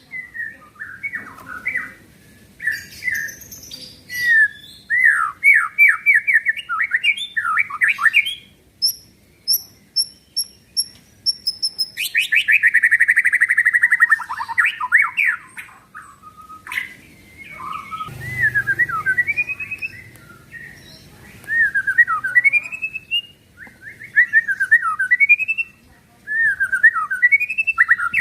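White-rumped shama (murai batu) singing a loud, varied song of quick whistled phrases. A run of thin, high repeated notes comes about nine seconds in, followed by a fast rattling trill that slides down in pitch. The rattle is the shama's 'kretekan', the burst that keepers use to provoke other shamas into singing.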